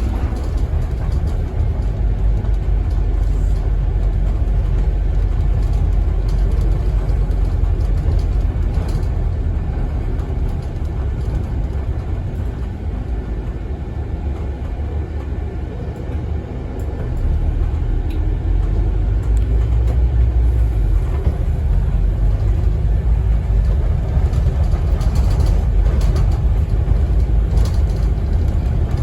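Scania N270UD double-decker bus's five-cylinder diesel engine and road rumble heard from inside the moving bus. The sound eases off for a few seconds around the middle, then grows louder again.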